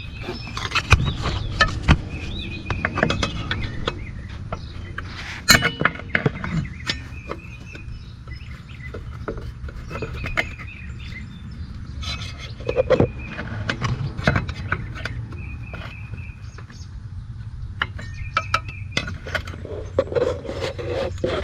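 Scattered metal clinks, taps and knocks as a tool works at a bent bracket tab that is rubbing the front brake rotor, trying to bend it out. The rubbing tab is the cause of the brake squeal.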